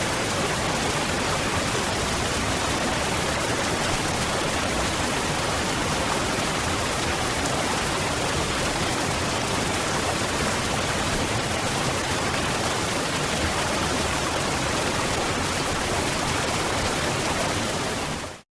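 Waterfall: water falling and rushing with a steady, even roar, which fades out quickly near the end.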